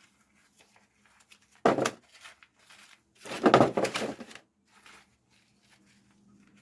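Small freshly harvested potatoes being sorted by hand, knocking and rattling against each other and their container: a short clatter about two seconds in and a longer one lasting about a second near the middle, with a few light knocks between.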